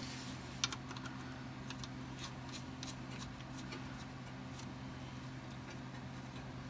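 Light, irregular clicking for about four seconds from a ratchet being worked to run the front differential drain plug back in, over a steady low hum.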